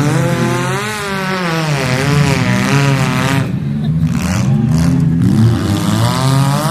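Several demolition derby car engines revving hard, their pitch rising and falling as the cars accelerate and back off during the last lap.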